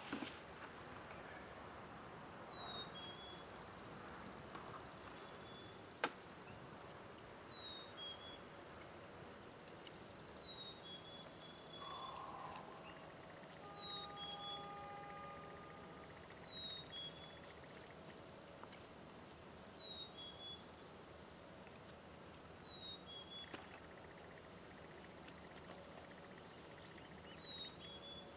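Wild birds singing: a short two-note call, a high falling note then a lower one, repeats every few seconds, with other birdsong between. A single sharp click about six seconds in.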